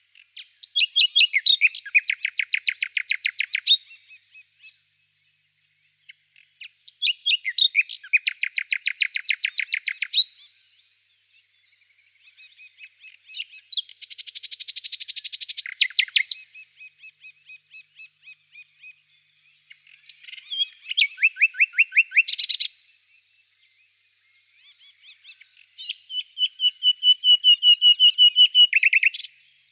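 A songbird singing five phrases of rapid repeated notes, each about three to four seconds long, with short pauses between them.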